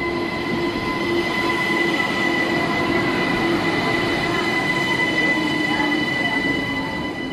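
A train running through the station, its rumble carrying a steady high-pitched squeal from the wheels, fading away near the end.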